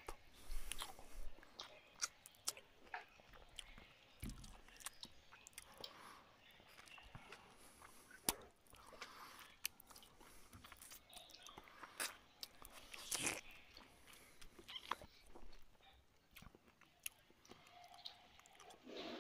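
Close-up eating sounds of a person eating rice and fish curry by hand: wet chewing and mouth noises, with irregular sharp clicks scattered throughout.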